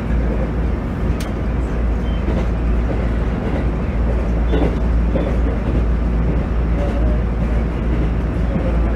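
JR East GV-E400 diesel-electric railcar running along the line: a steady deep rumble of engine and wheels on rail, with a sharp click about a second in.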